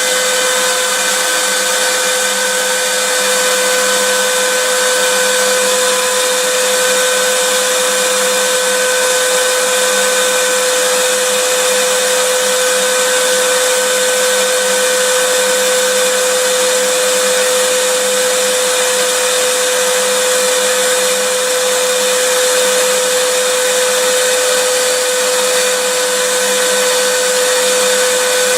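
Vacuum cleaner running continuously: a steady rushing hiss with a constant motor whine.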